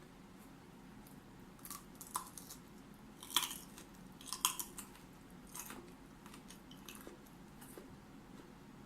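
Raw broccoli being chewed close to the microphone: irregular crisp crunches, the loudest a little past the middle.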